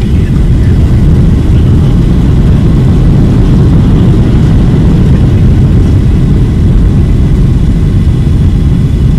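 A landing airliner's loud, steady low rumble.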